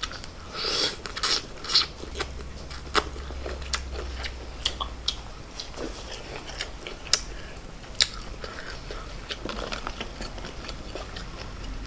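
Crunching bites into a crispy fried shrimp egg roll, strongest in the first two seconds, followed by chewing with scattered crackly clicks.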